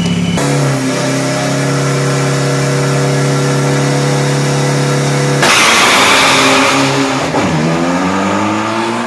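Turbocharged 3,000 cc pickup truck engine held at steady high revs, then a loud hissing rush about five and a half seconds in as the revs let go, after which the engine dips and climbs again.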